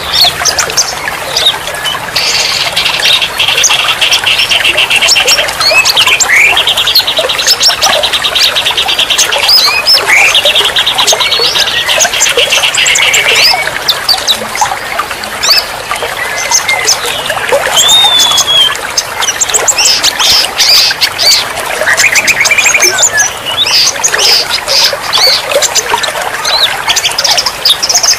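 Several songbirds calling and singing at once over a steady trickle of running water. Three long, rapid trills come in the first half, with scattered chirps and whistles throughout.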